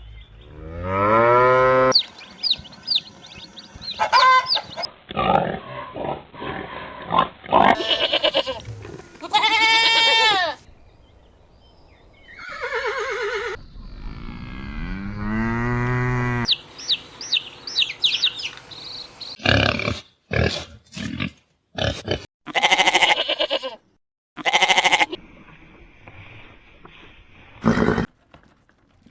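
A run of livestock calls cut one after another: long pitched calls and bursts of shorter ones from several farm animals, each clip ending abruptly.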